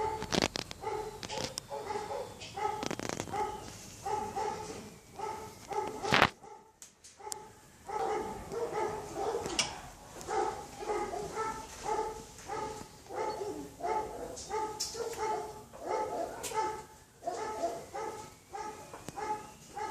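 A dog barking over and over in quick bouts, two or three barks a second, with a sharp click and a short pause about six seconds in.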